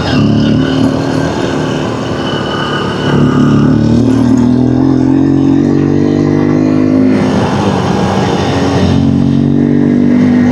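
Honda XR150 dirt bike's single-cylinder engine running under way, its pitch climbing in steps from about three seconds in. It dips briefly near seven seconds, then holds steady.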